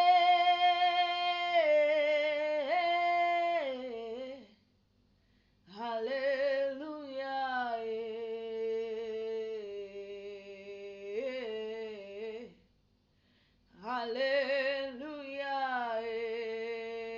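One voice singing unaccompanied in three long phrases of held notes, stepping down in pitch, with short breaths of silence between the phrases. Vibrato is plain on the last phrase.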